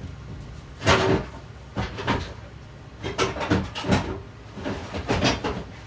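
Hard items clanking and rattling as parts are rummaged through, in irregular knocks about a second apart, over a low steady hum.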